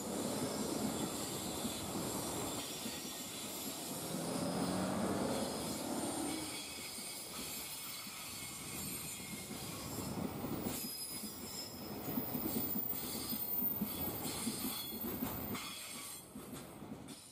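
Freight container flatcars rolling past on the rails in a continuous running clatter. It swells louder about five seconds in and dies away near the end as the last wagons pass.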